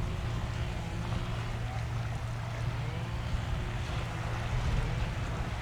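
Steady low rumble of distant jet aircraft engines at an airport, with wind blowing on the microphone.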